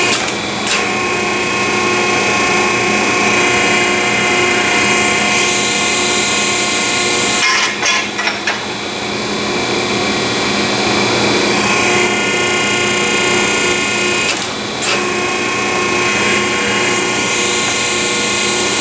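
Hydraulic exhaust pipe bender's pump motor running steadily as bends are put in exhaust tubing, with a few short knocks and brief dips about eight and fifteen seconds in.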